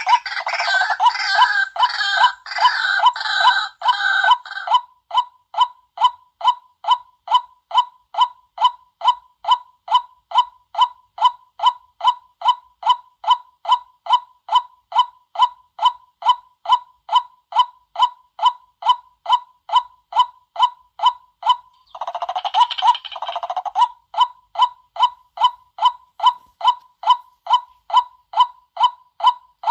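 White-breasted waterhen decoy call: a steady run of short, clipped notes about twice a second, broken near the start and again later by bursts of dense, cackling chatter.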